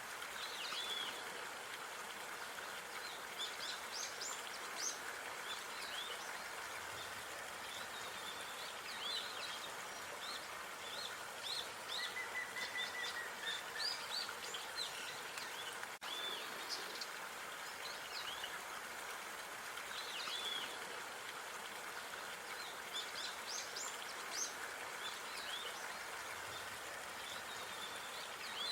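Park ambience: small birds chirping and calling in many short, quick high notes scattered throughout, over a steady background hiss, with one short held whistle-like note about twelve seconds in.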